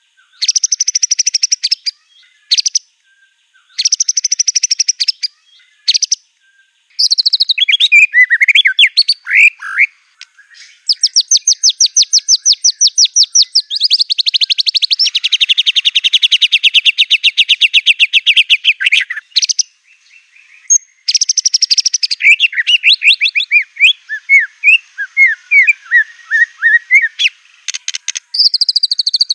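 White-rumped shama (murai batu) singing a loud, varied song that carries phrases mimicked from other birds such as the canary. Short buzzy phrases with gaps open it, a long rapid trill runs from about a third of the way in to past the middle, and quick swooping notes follow.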